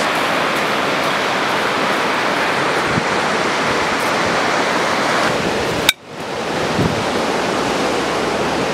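Steady rush of ocean surf, with a sudden brief drop-out about six seconds in before the noise returns.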